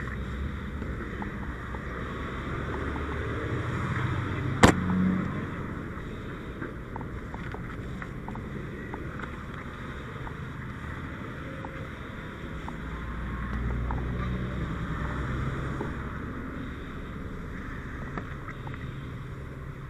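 Low vehicle-engine rumble that swells twice, with one sharp knock about four and a half seconds in and scattered small clicks.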